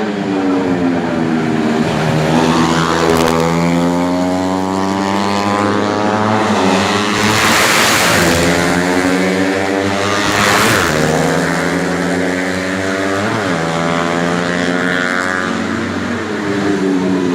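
Several four-stroke 125 cc underbone racing motorcycles running at high revs, their engine notes rising and falling as riders shift and pass. Bikes sweep close by about seven, ten and thirteen seconds in, over a steady drone from the rest of the field.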